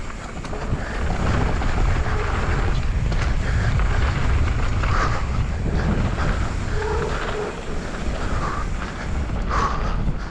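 Wind rumbling over a helmet-mounted action camera's microphone while a mountain bike is ridden fast down a dirt trail, with a few short higher-pitched sounds over it near the end.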